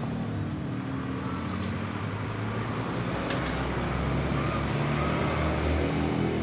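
Carbureted engine idling steadily with its air cleaner off while a screwdriver turns the carburetor's adjusting screw. The idle grows slightly louder toward the end, with a few light clicks about one and a half and three and a half seconds in.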